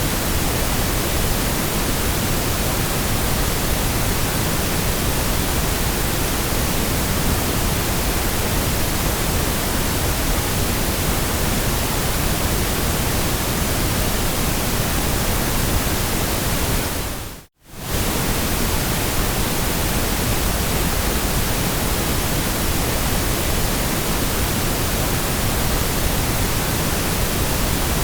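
Steady generated white noise, an even hiss spread across all pitches at a constant level. About two-thirds of the way through it fades briefly to near silence and straight back in.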